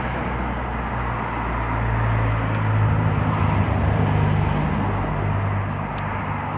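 Pickup truck engine running at idle, swelling a little louder for a couple of seconds in the middle before settling back.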